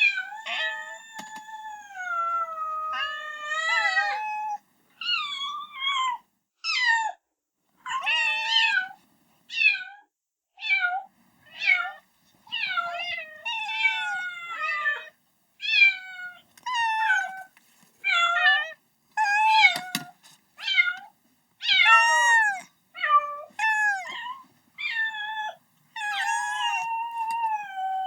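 Kitten meowing over and over, calling for its mother: high-pitched meows about one a second, mostly short, with a long drawn-out meow near the start and another near the end.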